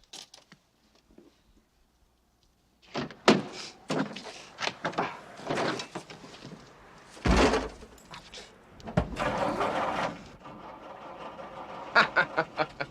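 A string of knocks and thumps, with a heavy low thud about seven seconds in and another about nine seconds in followed by a brief rush of noise, then a quick run of sharp taps near the end.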